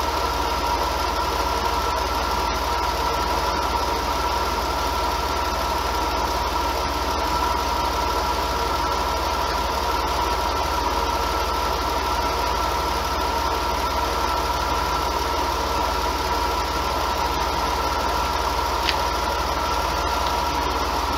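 Mercedes M104 straight-six engine idling steadily, with a steady high whine over the running. The owner diagnoses this engine as having a blown head gasket.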